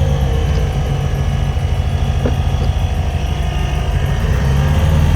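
Air-cooled 1800cc VW flat-four engine running with a rapid, pulsing low exhaust beat. A single light click about two seconds in.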